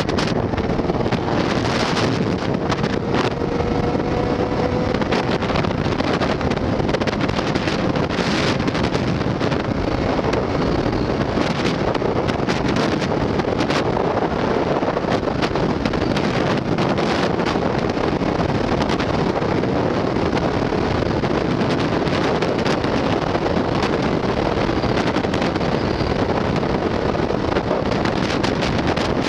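Wind rushing steadily over the microphone of a motorcycle riding at road speed, with engine and road noise beneath. A faint hum rises slightly in pitch over the first several seconds.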